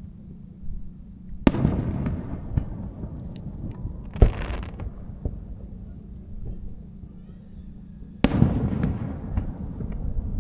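Aerial fireworks shells bursting: a sharp bang about a second and a half in and another near the end, each followed by a rumbling, crackling tail. A short, loud burst of crackle comes about four seconds in.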